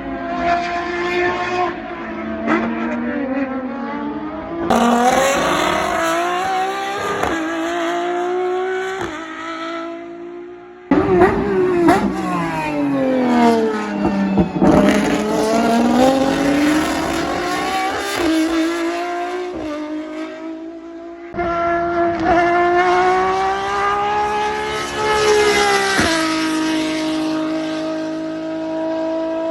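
Lamborghini race car engines revving hard, their pitch climbing and dropping through gear changes as cars pass, in several clips cut together with sudden jumps about 5, 11 and 21 seconds in. Near the end one engine holds a steady note.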